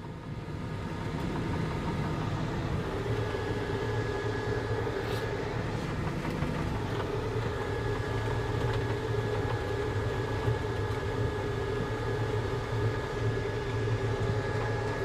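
Volvo skid steer's diesel engine running steadily, a low drone with a faint higher whine held over it, picking up slightly in the first couple of seconds.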